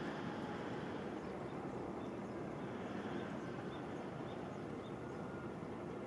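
Steady low rumbling outdoor background noise, with a run of faint, short high chirps in the middle.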